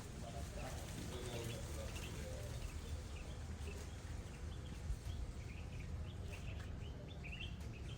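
Birds chirping in short scattered calls over a steady low rumble, with a few faint clicks.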